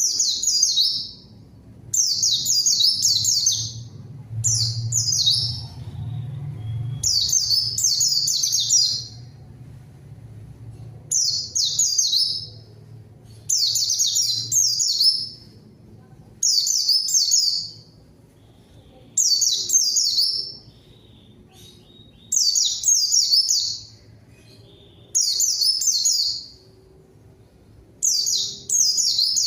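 A white-eye (pleci) in full, persistent song: about a dozen short bursts of fast, high, twittering warbles, each a second or two long, repeated every two to three seconds. It is a lure song, meant to call rival white-eyes and get them to answer.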